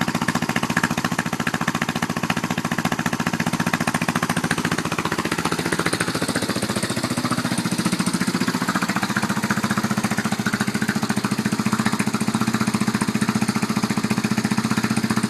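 Yamaha Warrior 350 quad engine, bored out to 366 cc, its single-cylinder four-stroke idling steadily through a Pro Circuit exhaust. The engine has just been started for the first time after a full rebuild.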